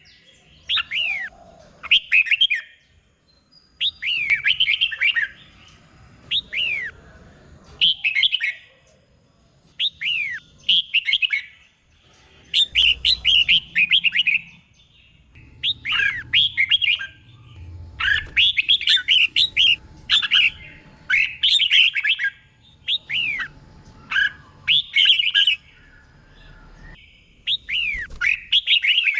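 Red-whiskered bulbul singing: short phrases of quick, bending whistled notes, repeated every second or two with brief pauses between. Some phrases are doubled, given twice in quick succession.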